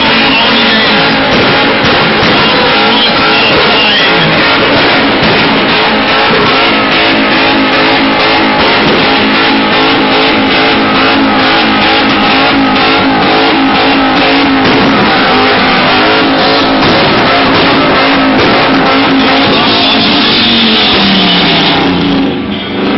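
Car engine held at high revs in a tyre-smoking burnout, its steady note falling away near the end as it comes off the throttle. Music plays over it.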